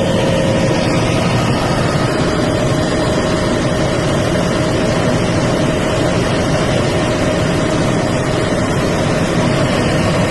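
Helicopter running steadily: constant loud engine and rotor noise with a steady whine over it.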